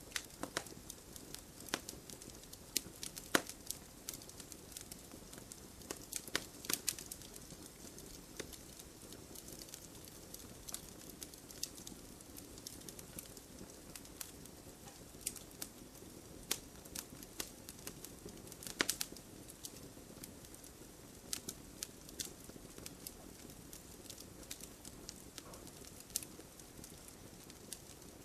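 Wood fire crackling in a fireplace: a steady low hiss with frequent sharp, irregular pops and snaps.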